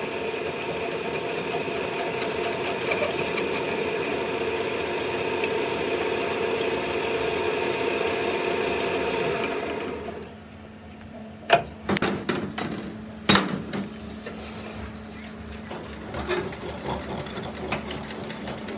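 A machine runs steadily with a held whine, then stops abruptly about ten seconds in. A few sharp metal knocks and clinks follow.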